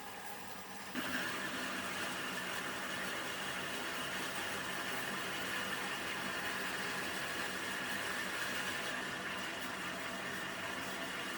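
Restored vertical band saw running: a steady machine hum that steps up sharply about a second in to a louder, steady sound and holds.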